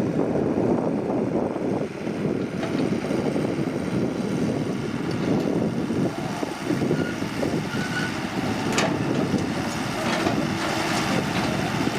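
Excavator diesel engine running steadily under work, with a single sharp knock about nine seconds in.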